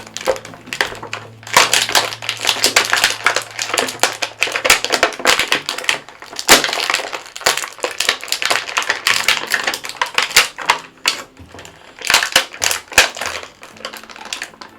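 Rapid, irregular clicking and crackling of stiff plastic action-figure packaging being handled and pulled apart by hand, with brief pauses.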